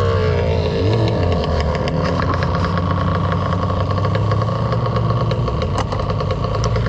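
Dirt bike engine running at low, steady revs close to idle, with a brief dip and recovery in pitch about a second in and a light mechanical clatter throughout.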